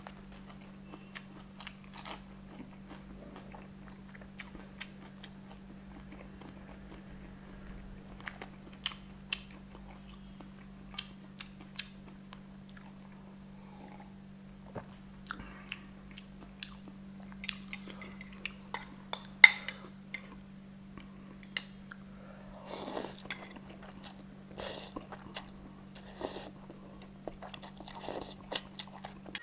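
Close-up eating sounds: chewing and crunching crispy fried chicken, with many sharp wet mouth clicks and smacks. One loud sharp click comes a little past the middle.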